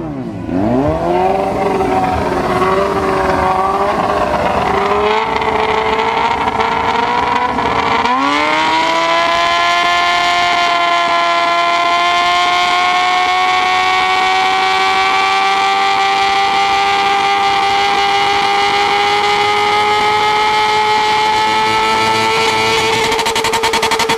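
Sport motorcycle engine and exhaust revving in uneven blips, then about a third of the way in it rises sharply and holds a high, slowly climbing note under hard acceleration until near the end.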